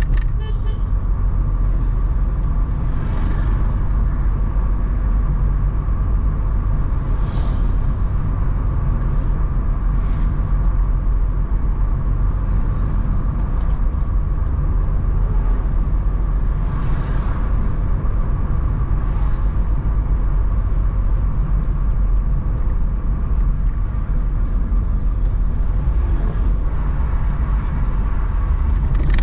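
A car driving along, with a steady low rumble of engine and road noise throughout.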